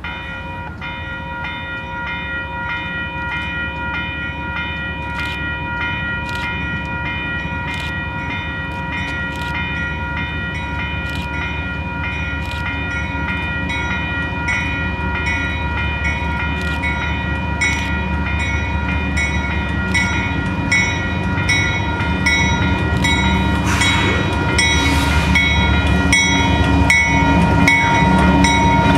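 Canadian Pacific freight train CP 141 approaching, its locomotive rumble growing steadily louder. Steady high-pitched ringing sounds throughout, and sharp wheel clicks come quicker and closer toward the end as the train nears.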